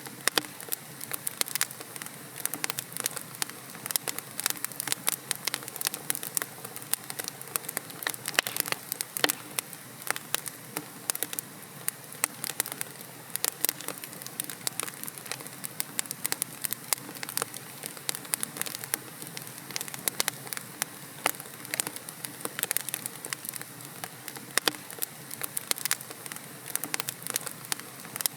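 Wood logs burning in a fireplace, crackling and popping irregularly and densely over a soft steady hiss of the fire.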